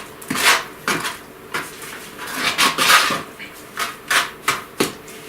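Masonry mortar being stirred in a basin, the tool scraping through the wet mix and against the basin in repeated strokes, about two a second. The mix is being worked to an even consistency.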